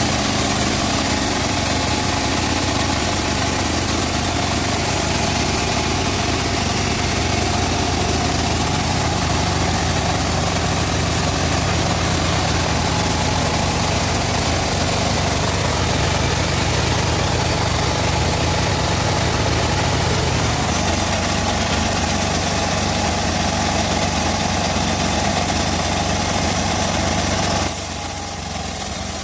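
Log bandsaw mill running as it saws teak: a steady mechanical drone. Its low hum changes about 21 s in, and the sound drops a little in level and brightness near the end.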